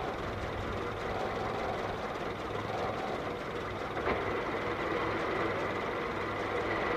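Ford Model TT truck's four-cylinder Model T engine running steadily, with a fine rapid clatter over a low hum.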